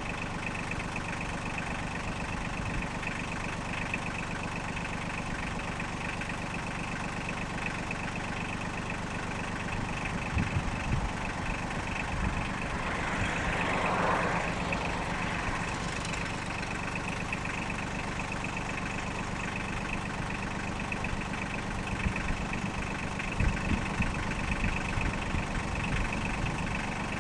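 Engine idling steadily, with a brief rise of hissing noise about halfway through and a few low thumps.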